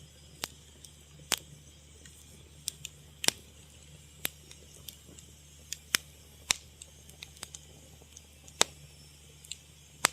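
Fire crackling: irregular sharp pops and snaps, about fifteen of them at uneven spacing, over a faint steady low hum.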